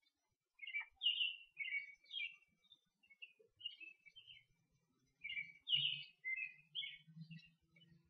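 Songbirds singing: a run of short chirps and warbled phrases, one after another, with brief gaps between them.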